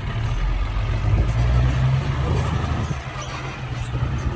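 Heavy diesel engine of earthmoving machinery running steadily with a low hum, a little louder between about one and two seconds in.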